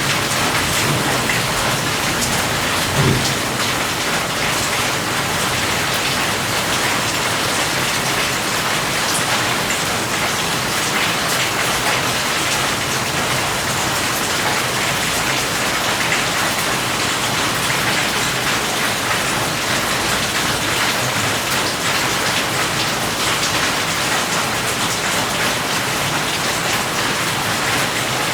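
Steady heavy rain falling on a surface, a dense even hiss, with a short low thump about three seconds in.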